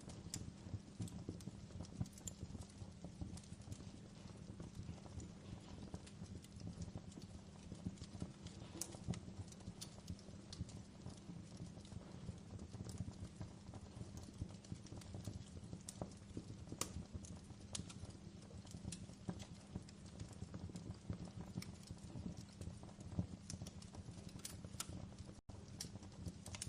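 Fireplace fire crackling: a dense run of small crackles over a low rumble of flame, with an occasional sharper pop. The sound cuts out for an instant near the end.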